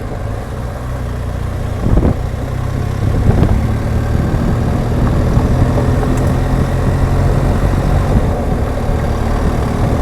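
BMW R1200GSA's flat-twin boxer engine running under way. There is a knock about two seconds in, after which the engine note is steadier and a little louder.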